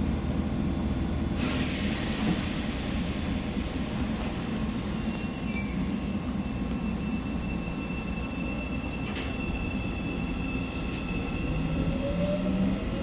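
Seoul Subway Line 4 train running, with a steady rumble of wheels on rail. About a second in there is a burst of hissing, and from about five seconds a thin high squeal is held. Near the end a rising whine of the traction motors sets in as the train picks up speed.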